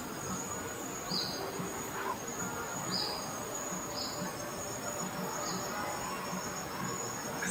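Borneo rainforest insect chorus: a steady high-pitched buzz, with four short high chirps scattered through it.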